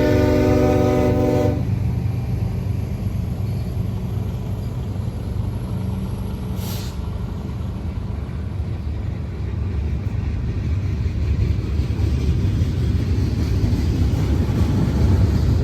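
Diesel locomotive air horn sounding a chord that cuts off about a second and a half in, followed by the steady low rumble of the passing freight train, growing louder near the end.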